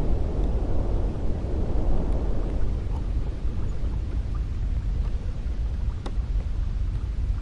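Cold wind blowing in a low, steady rush; a gust eases off over the first few seconds and the wind settles to a quieter, even blow.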